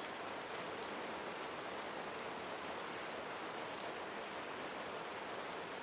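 Soft rain falling steadily, an even hiss.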